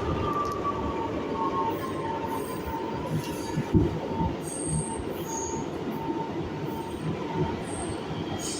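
New York City subway train running through the station: a rumble with a whine that falls in pitch over the first two seconds, then a tone pulsing about twice a second, with short high-pitched wheel squeals here and there.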